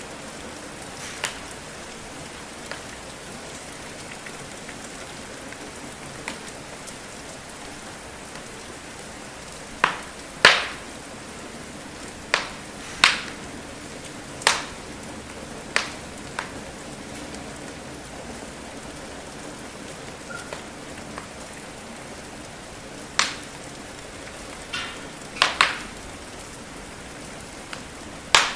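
Steady rain hiss with irregular sharp crackles and pops from a burning wood fire, a dozen or so, some in quick pairs.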